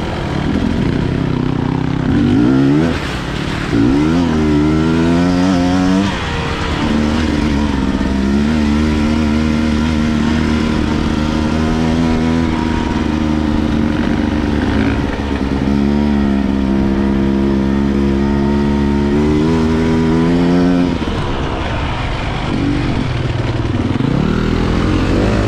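Enduro dirt bike engine under way, revving up twice in the first few seconds, then holding a steady high pull for about fifteen seconds before easing off near the end.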